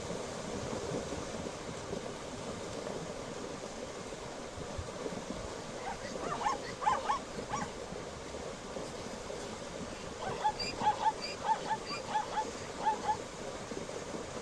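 Zebra calling in runs of short, high, dog-like yipping barks: a brief run about six seconds in, then a longer, quicker run of about eight yips near the end, over a steady rushing background.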